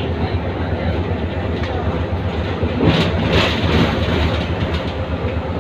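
Inside a moving city bus: steady low engine and road rumble, with a louder rushing swell about three seconds in.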